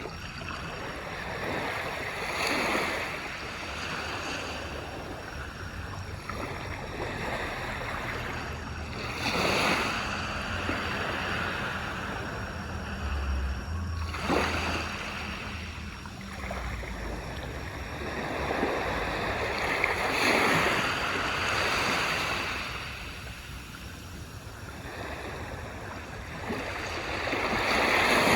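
Small waves breaking on a beach and washing up the shore, a surge every five to seven seconds over a steady hiss of surf.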